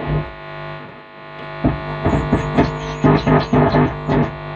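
Instrumental music played through a 75-watt transistor amplifier's loudspeaker on test. The amplifier now gives full sound after a failed transistor was replaced.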